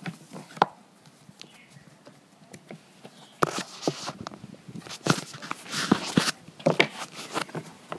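A series of irregular knocks and taps, sparse at first and coming in clusters from about halfway through.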